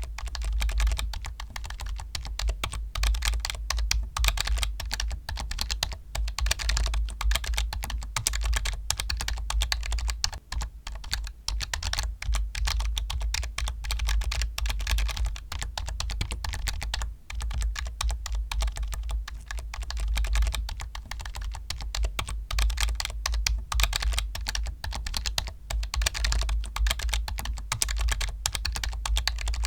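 Fast, continuous typing on a computer keyboard, a dense run of key clicks with a couple of brief pauses, over a low hum.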